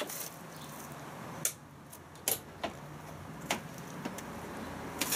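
A few separate sharp clicks and knocks from hands handling a washing machine, spaced about a second apart, with a louder cluster at the very end.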